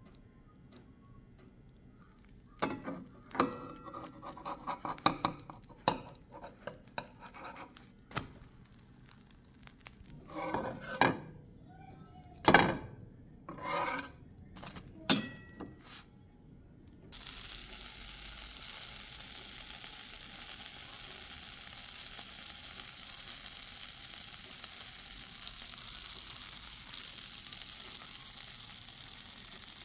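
Pancake batter being stirred in a bowl, with scattered clinks and taps of utensil on dish. About halfway through, a steady sizzle starts abruptly as pancakes fry in a hot pan.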